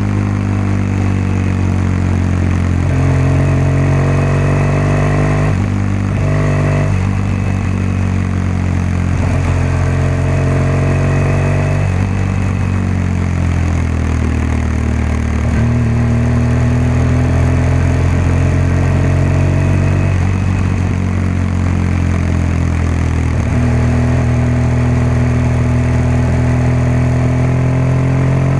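BMW R1200GS boxer-twin engine and exhaust on the move, the pitch climbing and settling as it pulls through the gears, with brief dips at each gear change several times along the way.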